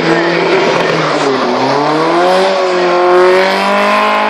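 Alfa Romeo Giulia Sprint GT's twin-cam four-cylinder engine under hard driving through a cone course. Its revs drop about a second in as the car turns, then rise steadily as it accelerates away, loudest about three seconds in.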